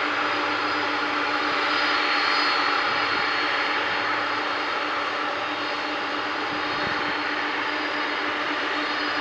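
Boeing 747-400F jet engines idling while the freighter holds for take-off clearance: a steady rush of noise with a constant high whine.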